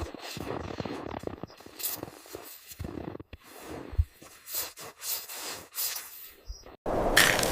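Irregular scuffing and thumping of movement, with a sharper knock about four seconds in; near the end the sound cuts suddenly to a louder fire crackling steadily.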